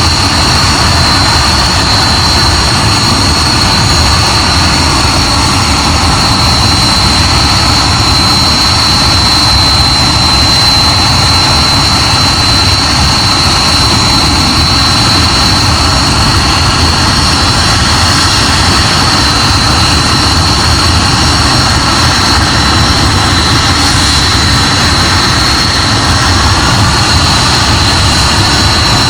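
Hawker Hunter jet engine running steadily on a ground run: a loud, even roar with a steady high-pitched whine over it.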